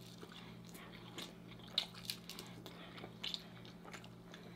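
Close-miked eating: biting into and chewing fried corn-tortilla birria tacos, with scattered wet mouth smacks and small crunches, the strongest about two seconds in. A faint steady low hum runs underneath.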